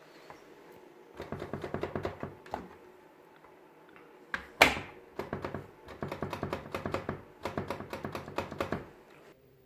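LG washing machine knocking: several runs of rapid rattling knocks separated by short pauses, with one loud single thud a little before the middle.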